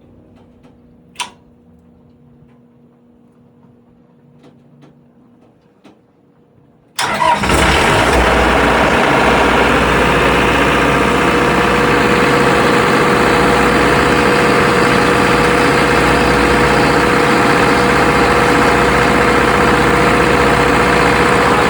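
An engine in a houseboat's engine bay starting up for the first time since the boat was winterized. It comes in suddenly about seven seconds in and then runs loud and steady. Before that there is little but a single click about a second in.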